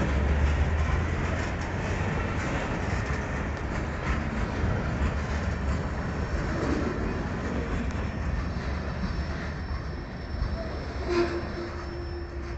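Freight train of boxcars rolling past: a steady rumble and rattle of steel wheels on the rails that slowly fades as the end of the train goes by, with a single sharp clank about eleven seconds in.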